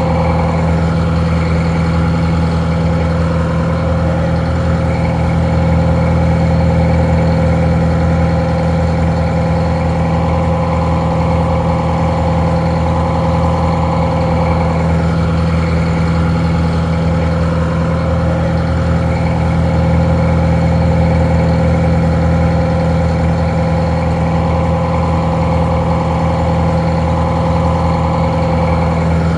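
Detroit Diesel 4-71 two-stroke diesel engine idling steadily, driving a barge winch. The sound is somewhat muffled.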